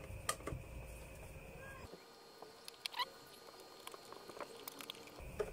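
Faint scattered clicks and light scratching from the ice crusher's parts and wires being handled by hand, with a couple of sharper clicks about half a second in and again around three seconds in.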